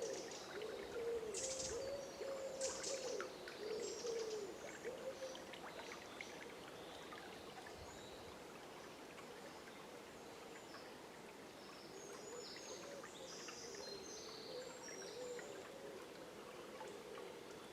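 Forest dawn chorus by a river: a low call repeated in a quick series, fading out about five seconds in and coming back near the middle, with higher bird chirps over the steady running of the river.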